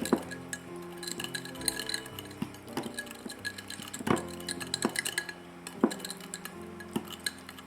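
A utensil stirring cake batter in a dish, clinking irregularly against its sides, with one louder clink about four seconds in.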